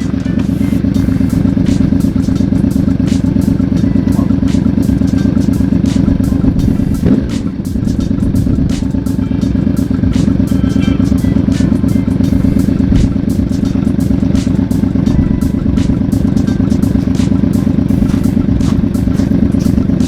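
Yamaha Vmax's V4 engine running, with a brief drop in level and change in pitch about seven seconds in. The bike is warmed up after its winter layup.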